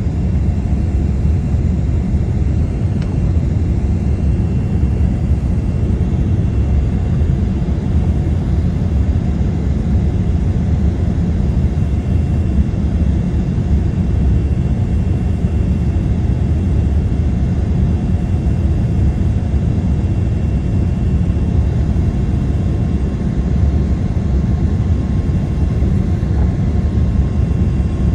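Boeing 787 airliner on its landing, a steady low rumble of jet engines and rushing air, with a faint steady high tone over it.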